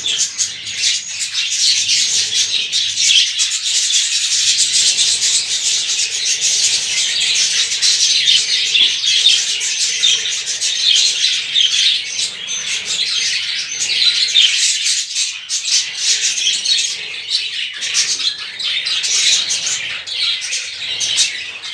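A flock of budgerigars chattering: many birds chirping and warbling at once in a steady, dense din.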